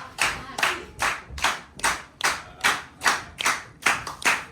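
Steady rhythmic clapping in unison, a little over two claps a second.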